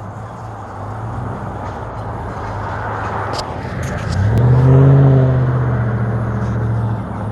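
A bee buzzing while stuck inside a flower, a steady low buzz that swells louder about four seconds in and then eases off.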